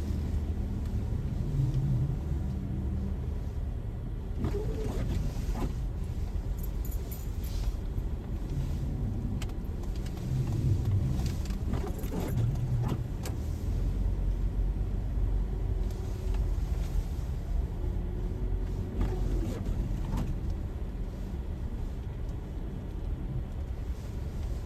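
Car driving: a steady low rumble of engine and road noise, with scattered light clicks and rattles.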